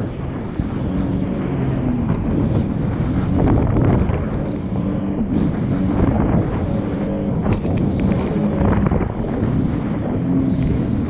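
Jet ski engine running on the water, its pitch rising and falling with the throttle, under heavy wind buffeting on the microphone and splashing.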